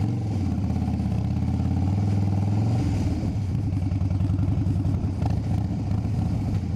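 Motorcycle engine running at low revs with a fast, even pulsing beat, its pitch shifting slightly about three seconds in.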